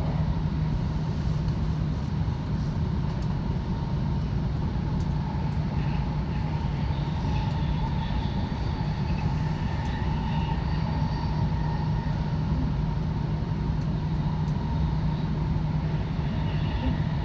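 Steady running noise inside the cabin of a Tohoku Shinkansen E2 series train: an even rumble with a constant low hum.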